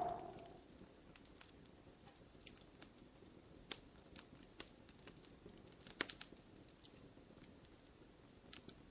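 Wood fire crackling in a fireplace: faint, scattered pops and snaps over a soft steady hiss, with the sharpest snap about six seconds in. A brief tone fades out at the very start.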